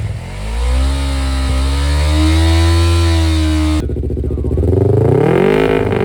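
Yamaha MT-03/R3 parallel-twin engine through a MIVV full exhaust, revved up and held at high revs. About four seconds in the sound cuts off abruptly and gives way to a different rising tone.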